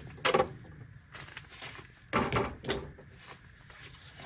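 Knocks and clatter of gear being put back into and moved around a wooden drawer: a couple of short bursts, one near the start and a louder one about two seconds in.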